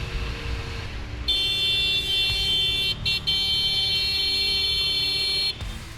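Motorcycle horn held down for about four seconds, a high steady blare with two brief breaks, over the low rumble of the motorcycle and road.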